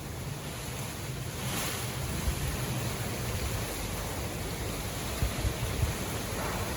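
Strong wind gusting through trees, a rushing hiss of leaves and branches that swells about a second and a half in and again near the end, with wind buffeting the microphone in a rough low rumble.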